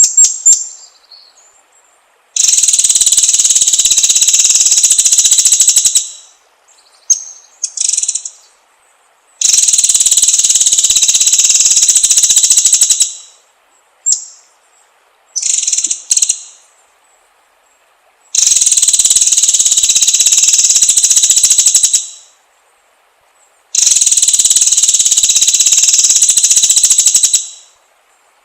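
Songbird lure recording: a long, rapid, high-pitched buzzing trill of about three and a half seconds, repeated four times, with short sharp chirps in the gaps between.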